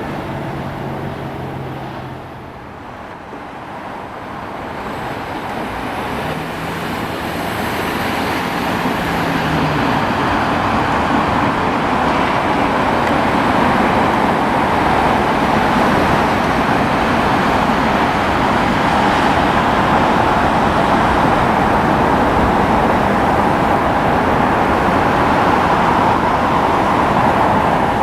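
Loud rushing vehicle noise that builds over about ten seconds and then holds steady.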